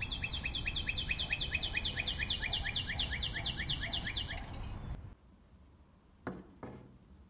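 A songbird sings a long, rapid trill of identical descending chirps, about six a second, which stops about four and a half seconds in. After it, two light knocks as a plastic model truck body is handled on a table.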